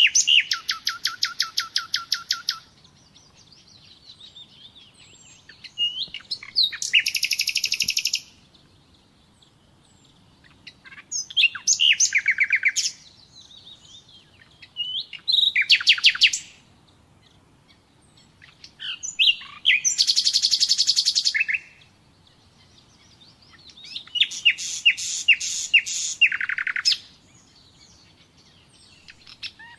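Nightingale singing: six short phrases, each a fast series of repeated notes, separated by pauses of a few seconds.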